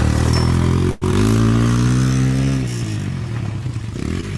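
Dirt bike engine running; after a momentary dropout about a second in, it revs up with its pitch climbing, then drops back to a lower steady note.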